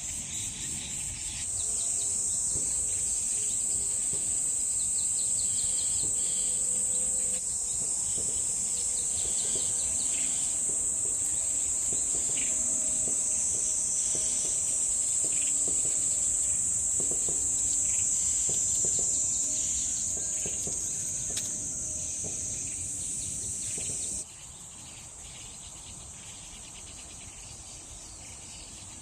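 Steady high-pitched drone of insects, with scattered faint bird chirps. The drone drops abruptly in level about 24 seconds in.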